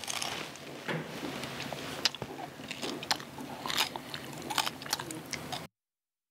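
Close-up biting and chewing of a honey-dipped garaetteok (Korean white rice cake stick) with a crisp outside and chewy inside: a run of small crunches, clicks and sticky mouth sounds. The sound cuts off suddenly near the end.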